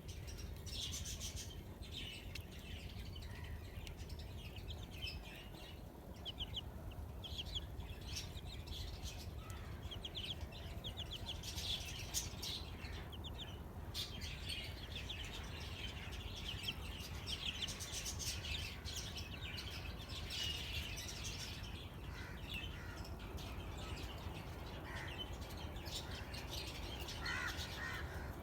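Newly hatched desi chicks peeping, many short high-pitched chirps repeated in quick runs, over a steady low rumble.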